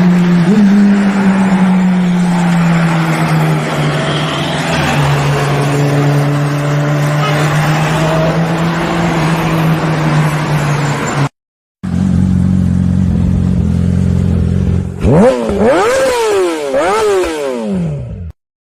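Sportbike engines. First a steady engine note that sags slightly in pitch, then after a cut the engine runs steadily before several quick rising-and-falling revs near the end.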